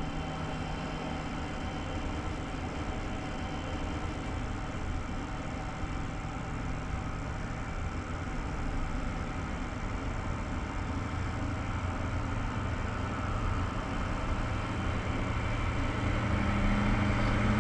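Passenger train car pulling away from a station: a steady low rumble of the coach rolling on the track, with a faint hum, growing slowly louder as the train gathers speed.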